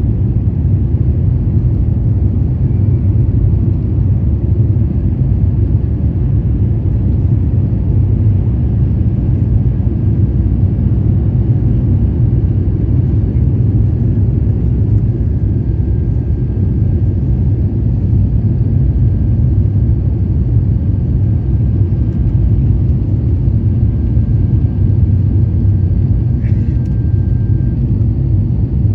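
Steady loud low rumble inside the cabin of an Airbus A350-900, its Rolls-Royce Trent XWB engines running.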